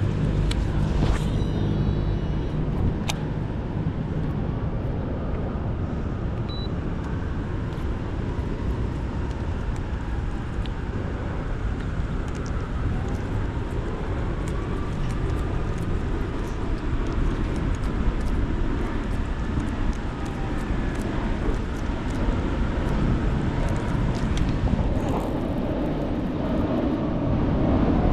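Steady low rumble of city traffic, with a faint passing drone rising and falling in pitch, and a few light clicks.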